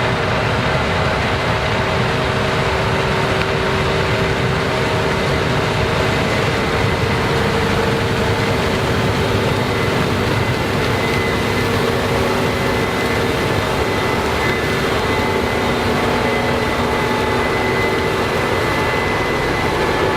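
Combine harvesters running steadily while harvesting corn: a loud, unbroken machinery noise with several steady hums and a high whine.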